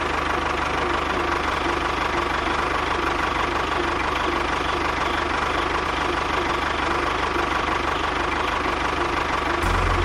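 A small engine on a miniature tractor running steadily at idle with an even, pulsing chug. Its low rumble grows louder near the end.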